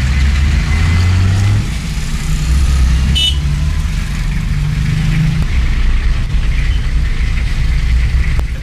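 A motor vehicle engine running with a low drone whose pitch steps up and down, and a brief high chirp about three seconds in.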